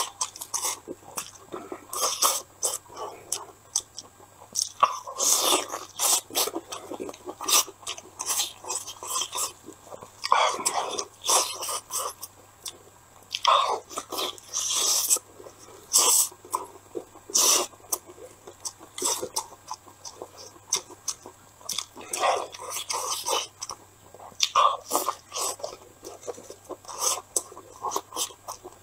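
A man chewing and biting into sticky glazed chicken wings stuffed with rice, picked up close by a clip-on microphone: irregular wet smacks and clicks of eating.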